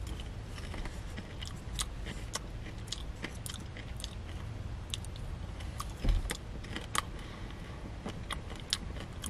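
A person chewing crunchy popcorn studded with M&M's Minis candies, with many small irregular crunches and crackles over a low steady rumble; one louder crunch or knock about six seconds in.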